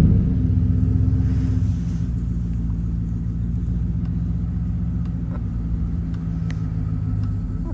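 Motor vehicle engine running as it drives slowly along a rough farm track, a steady low rumble that is a little louder for the first couple of seconds, with a few faint rattles.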